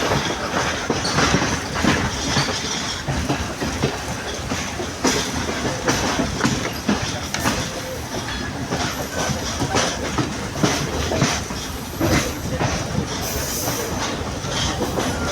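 Sri Lanka Railways Class S11 diesel multiple unit running on the line: a steady rolling rumble and rattle, with frequent sharp clicks and knocks as the wheels cross rail joints.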